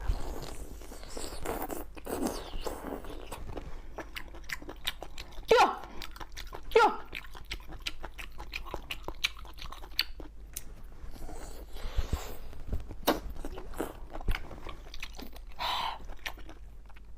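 Close-up eating: biting and chewing food, with many small wet clicks and crunches. A few short vocal exclamations break in around the middle and near the end.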